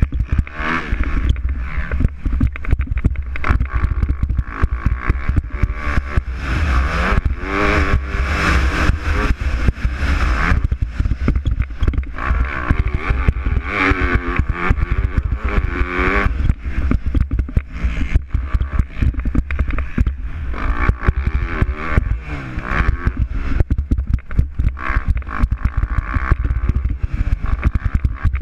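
Motocross bike engines revving hard during a race, the pitch climbing and dropping several times as the bikes accelerate and shift, over a constant deep rumble.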